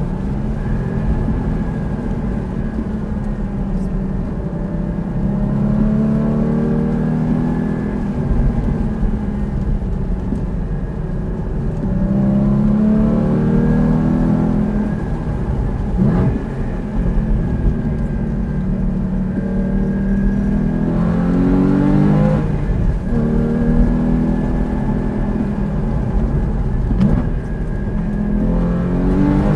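Porsche sports car engine heard from inside the cabin during a fast track lap, the revs climbing through the gears and dropping off sharply at each shift or braking point, several times over.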